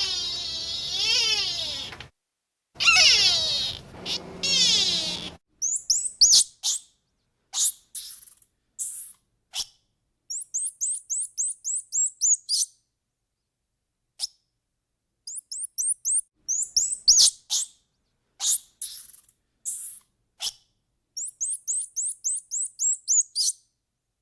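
Cat meowing, two long wavering calls, then a small bird chirping in short high notes and quick trills, over and over.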